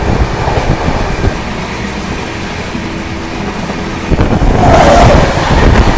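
Passenger train running on the rails, a steady rumble and rattle that grows louder about four and a half seconds in.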